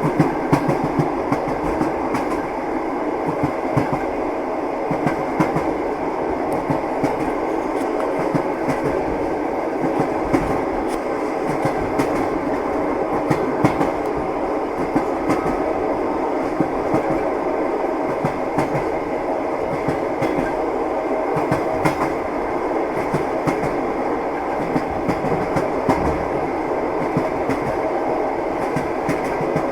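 Train running steadily along the track: the wheels clatter over the rail joints in a continuous rumble, with frequent irregular knocks.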